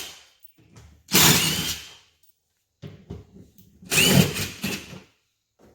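Handheld power tool, likely a cordless drill or driver, run in short bursts of about a second, about three times, each opening with a brief rising whine as the motor spins up.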